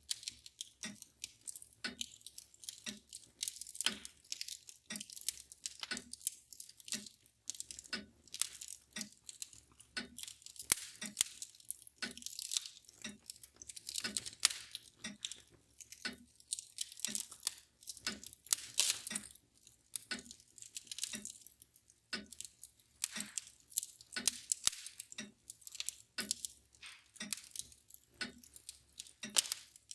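Wood fire crackling and popping in a fireplace, with a mantel clock ticking steadily about once a second underneath.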